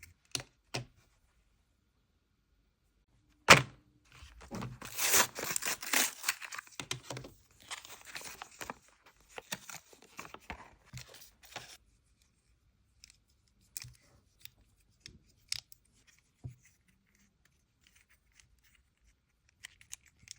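Toy packaging being opened and handled: a sharp knock about three and a half seconds in, then several seconds of tearing, followed by scattered small clicks and taps.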